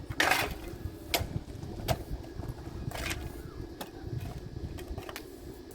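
A handful of sharp, irregular knocks or clanks over a steady low rumble.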